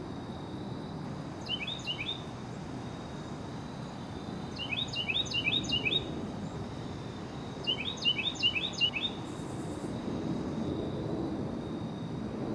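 A songbird singing three short bursts of quick, repeated notes a few seconds apart, over a steady low background rush of outdoor noise.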